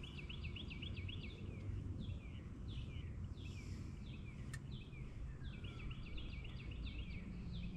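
Birds singing: fast runs of high chirps and repeated downward-sliding whistles, over a low steady rumble. A single sharp click about four and a half seconds in.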